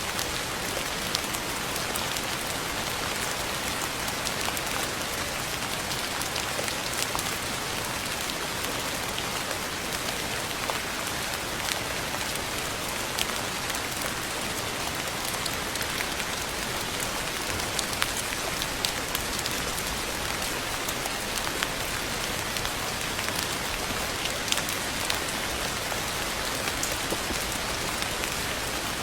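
Steady rainfall: an even hiss of rain with many separate raindrop ticks scattered through it.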